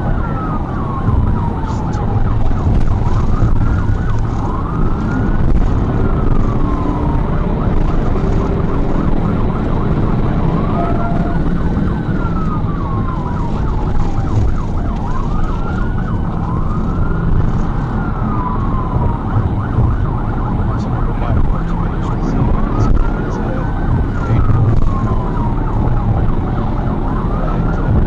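Police car siren wailing in repeated sweeps, each rising quickly and falling more slowly, some overlapping. Under it runs heavy, steady engine and road noise from a patrol car in a high-speed pursuit.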